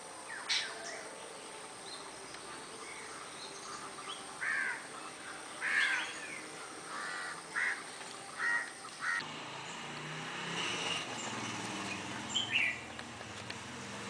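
Birds calling with short, rough calls. One comes just after the start, then about six follow in quick succession from about four seconds in, and a close pair comes near the end.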